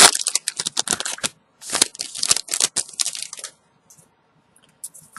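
Foil booster-pack wrapper crinkling as it is torn open, in two stretches, then a few faint light ticks of cards being handled.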